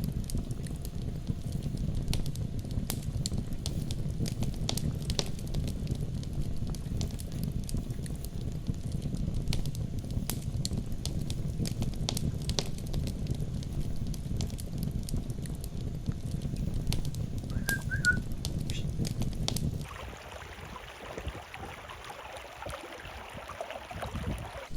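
Wood fire burning: a low steady rumble with many small crackles, and two short high chirps near the end of it. About twenty seconds in, it cuts abruptly to a softer, higher hiss without the rumble.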